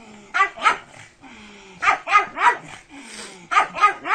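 A pug barking in short, sharp yaps that come in quick groups of two or three, about eight barks in all.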